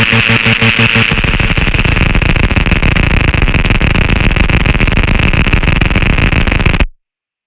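Loud, harsh experimental electronic music: a dense, noisy wall of sound with a steady high ringing band, changing character about a second in, then cutting off abruptly near the end.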